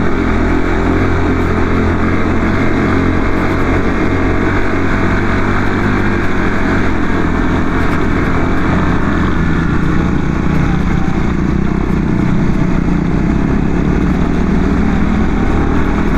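Lifan KPR motorcycle's single-cylinder engine running hard and steady in first gear, pulling up a steep climb.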